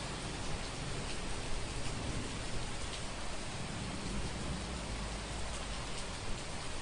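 Heavy rain falling steadily as an even hiss, with scattered drop taps. A low rumble swells up about four seconds in.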